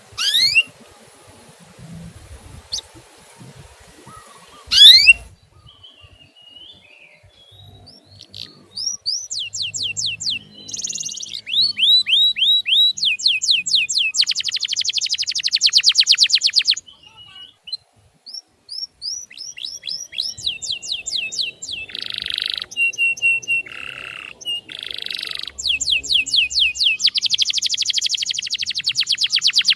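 Male canary singing: two loud rising whistles in the first few seconds, then fast trills of repeated down-slurred chirps, broken by a few short pauses.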